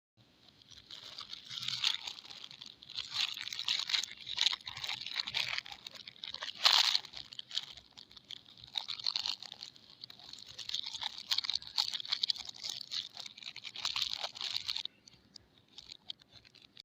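Crinkling, crackling packaging as soap is unwrapped by hand: a busy run of small crunches with one sharper crackle about halfway, stopping shortly before the end.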